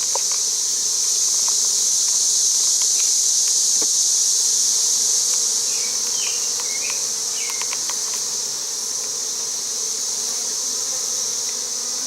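Swarm of honey bees buzzing in a steady hum around their exposed comb, under an unbroken high-pitched insect drone, with a few faint clicks.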